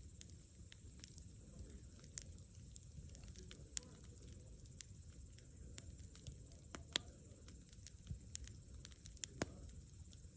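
Wood campfire crackling: irregular sharp pops and snaps over a steady low rumble of the burning fire, the loudest snap about seven seconds in.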